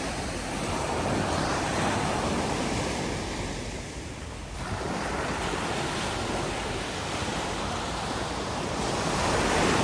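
Ocean waves washing in, with wind on the microphone; the sound swells and eases, with a short lull about four seconds in.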